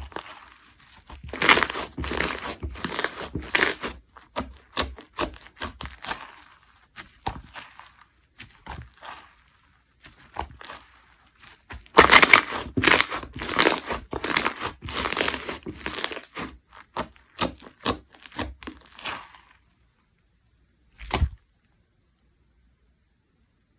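Crunchy semi-crunch micro-foam slime being pressed and squeezed, giving dense crisp crackling in two louder runs that stop a few seconds before the end; a single short knock follows.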